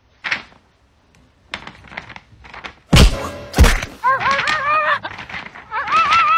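Objects knocked about on a concrete floor by playing dogs: a few light knocks, then two heavy thumps about half a second apart. After them come several high, wavering cries.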